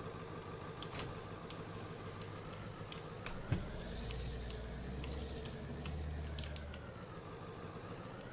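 Pickup truck engine running steadily, its pitch slowly rising and falling, with scattered light clicks and rattles at irregular moments.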